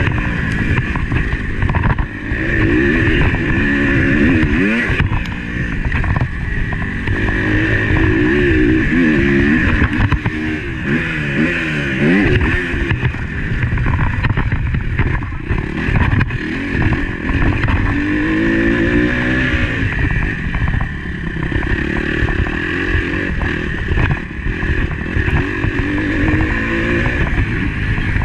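Motocross bike engine heard on board, revving hard with pitch repeatedly rising under acceleration and falling back off the throttle, over rough wind and rattle noise on the bike-mounted camera.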